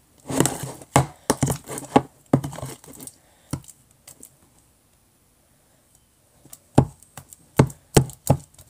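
A spoon knocking and scraping against the mixing container as slime is stirred, in a quick run of clicks and knocks. It stops for a few seconds in the middle, then starts again.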